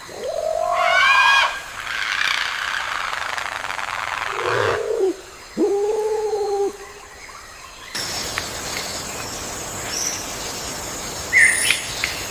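Calls of several different birds in turn: a loud call that rises in pitch, then a lower call held for about a second, then short high chirps, with the background changing abruptly between them.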